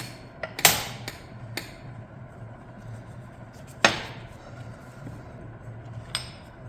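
Metal transmission parts knocking and clanking as they are handled and set down during a teardown: a few separate sharp knocks, the loudest about half a second in and another near four seconds with a short metallic ring.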